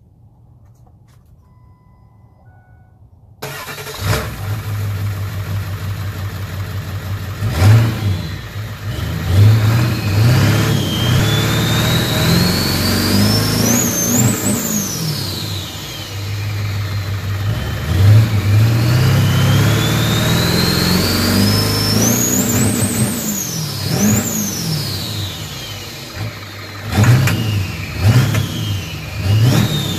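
7.3 L Power Stroke V8 turbo diesel, straight-piped, being revved hard: its Garrett GT38R ball-bearing turbo whistle rises steadily to a high peak as the revs climb toward fuel cutoff, then falls as they drop. This happens twice in long runs, with shorter blips near the end. The engine sound comes in suddenly a few seconds in.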